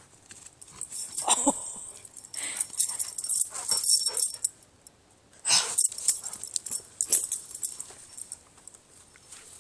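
A dog whining and huffing in short, irregular bursts.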